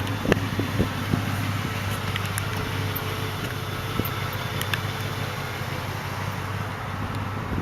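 1993 Lincoln Town Car's 4.6 V8 idling with a steady low hum, with a few sharp clicks or knocks in the first second.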